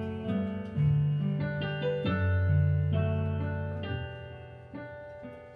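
Keyboard with a piano sound playing slow, held chords over low bass notes as a worship song's introduction, the last chord dying away near the end.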